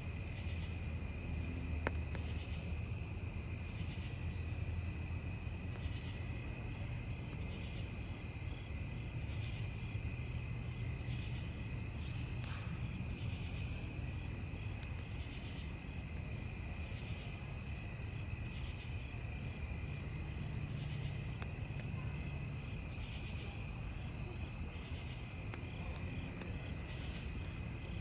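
Crickets chirping in a steady chorus, with a higher insect trill pulsing about once a second, over the low rumble of a wood campfire that crackles once or twice.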